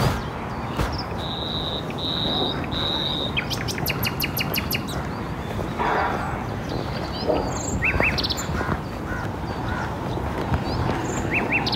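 Birds calling over a steady low outdoor background noise: three short, level whistled notes, then a quick run of about six sharp chirps, and a few more brief chirps later on.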